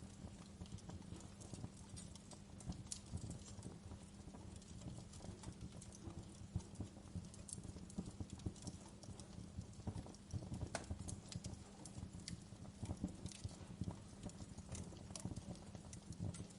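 Wood fire crackling softly: irregular small pops and snaps from the burning logs over a low, steady rumble of flame.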